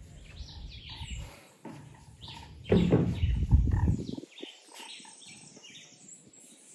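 Many short, high chirps from small birds, among them hummingbirds, at a sanctuary feeding spot. About three seconds in, a louder low rushing noise lasts roughly a second.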